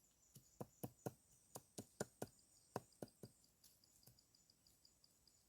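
Chopping: a quick run of sharp knocks, about two to three a second, thinning out and fading after about three seconds. Insects chirp steadily in the background.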